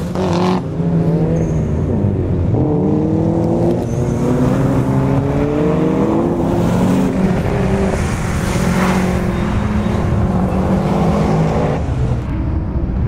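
Subaru Impreza WRX STI's turbocharged flat-four boxer engine, driven hard on track: it revs up repeatedly, and the pitch drops back at each gear change and lift-off as the car drives past.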